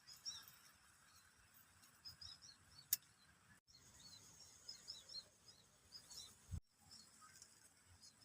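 Faint chirping of small birds: many short, repeated high chirps, with a single sharp click about three seconds in.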